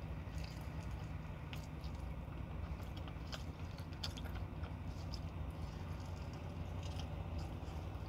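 Close-up biting and chewing of crispy fried chicken, with scattered short crunches, over a steady low hum.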